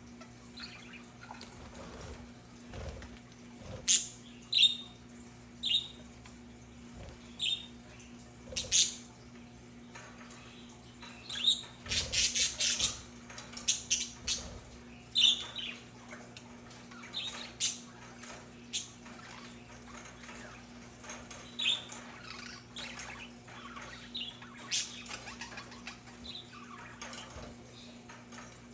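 Budgerigars chirping: short, sharp high calls scattered throughout, with a busier flurry of chatter about halfway through.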